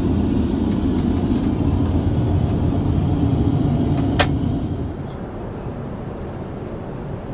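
Steady low rumble of a Boeing 787-9's cabin in flight. A single sharp click comes about four seconds in, and the rumble then drops noticeably quieter.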